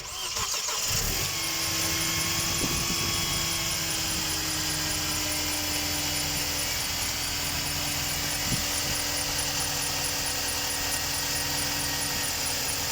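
Mercedes E200 Kompressor engine starting and then running steadily, with a fast, even high ticking over the engine note. It is run for a fuel pressure test, its fuel pump taken to be faulty.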